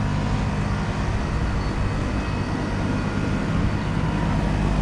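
Ameristar 2-ton central air conditioner condenser running: a steady hum from the compressor and condenser fan, with a few faint steady tones over it.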